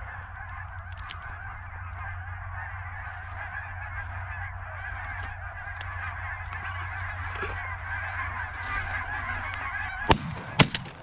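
A large flock of Canada geese honking continuously overhead, many calls overlapping. Near the end two loud shotgun shots go off about half a second apart as the hunters fire on the flock.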